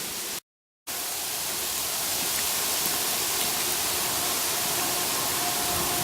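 Steady hiss of light rain and sleet falling, with a faint steady hum underneath. A half-second gap of silence breaks it near the start.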